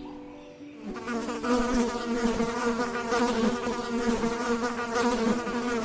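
Insects buzzing: several wavering buzzing tones overlapping, starting about a second in.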